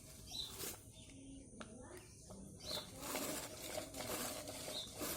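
Outdoor background noise with a short high chirp repeating about every two seconds, like a bird call, and a few faint clicks.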